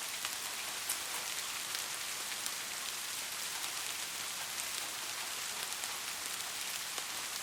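Steady rain falling, an even hiss with many separate drops ticking sharply at irregular moments.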